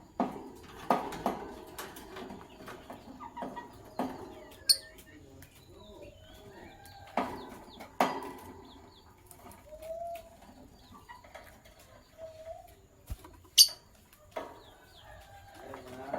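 Lovebirds chirping: short, sharp calls and chatter coming irregularly, with a few loud, shrill cries.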